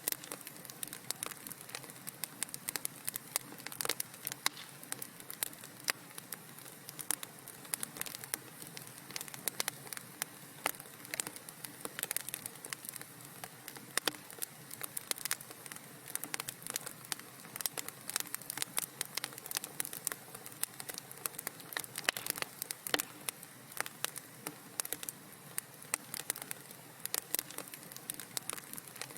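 Wood fire crackling in a fireplace: many irregular small pops and snaps over a soft, steady hiss.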